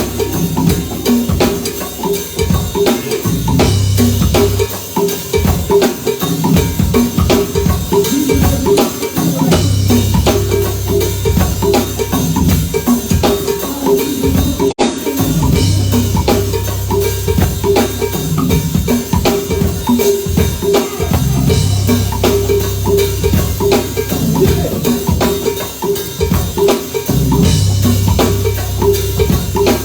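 Live band music: an instrumental passage carried by a drum kit and a strong bass line, with a split-second dropout about halfway through.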